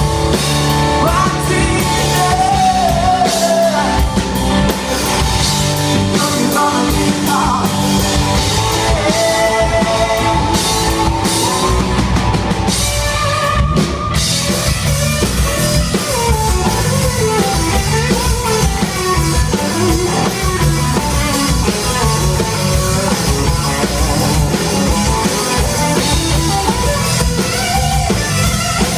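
A live rock band playing: drum kit, electric guitars and bass, with singing.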